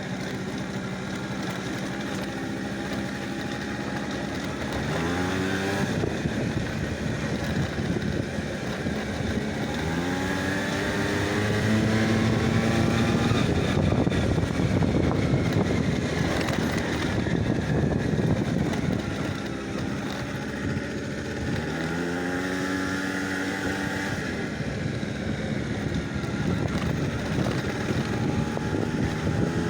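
A vehicle engine running, its pitch climbing three times as it speeds up and holding steady in between.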